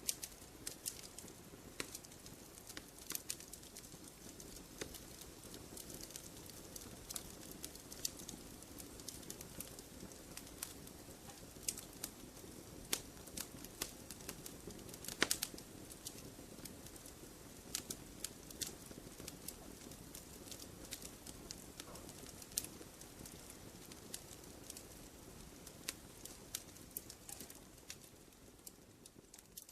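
Fire in a fireplace crackling, with frequent irregular sharp pops over a faint steady low rumble; it fades down near the end.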